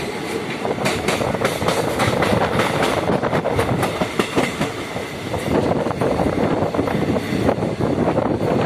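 Moving passenger train heard from the window of a coach: a steady rolling rumble with wheels clattering over the rails in many quick clicks.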